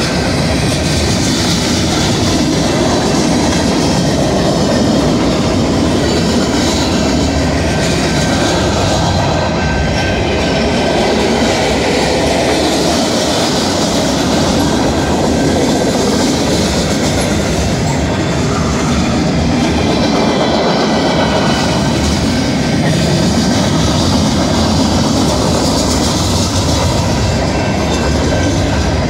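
Freight cars of a long mixed manifest train passing close by at speed: a loud, steady rush of steel wheels on the rails that does not let up.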